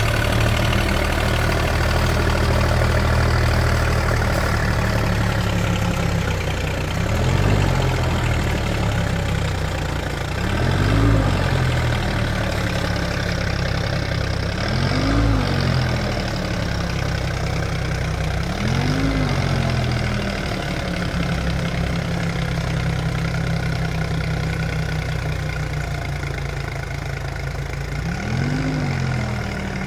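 Deutz-Fahr tractor's diesel engine running steadily, its pitch rising and falling back briefly about five times.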